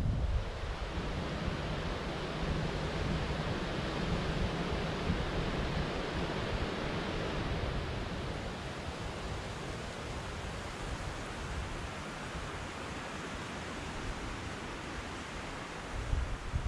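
Steady white-noise ambience: an even rushing hiss with no tones or rhythm, with a louder low rumble at the very start and again near the end.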